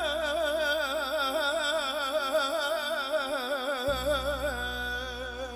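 Male voice holding a long melismatic note with wide, even vibrato in a Turkish uzun hava, over a steady low drone; the vibrato settles into a steadier tone near the end.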